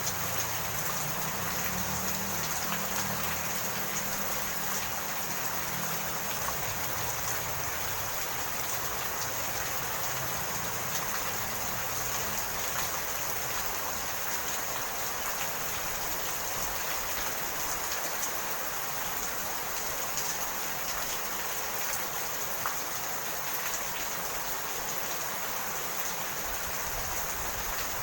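Steady rain falling, an even hiss of drops. A low rumble underneath fades away over the first several seconds.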